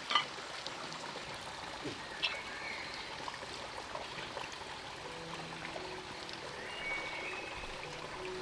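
A stream running steadily, with a few short high chirps over it.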